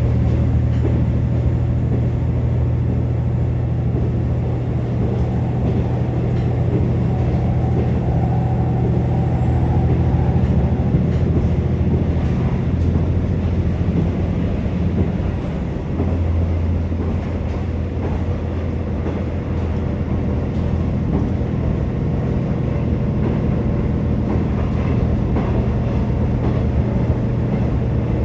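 Inside a KiHa 47 diesel railcar under way: the steady drone of the underfloor diesel engine with wheel-on-rail running noise. The engine note shifts about halfway through.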